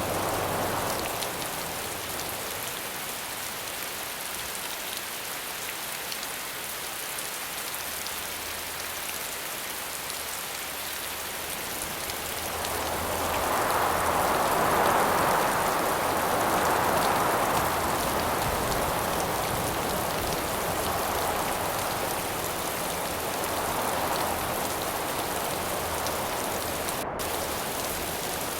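Steady rainfall with gusts of wind that swell up about halfway through and ease off again in waves.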